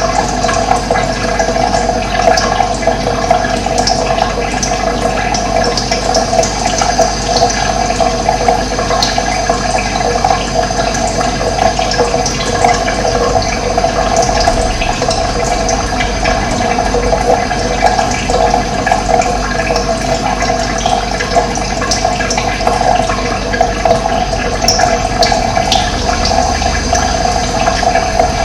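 Running water, a steady, loud rush like a stream or small cascade, with faint short bird chirps now and then.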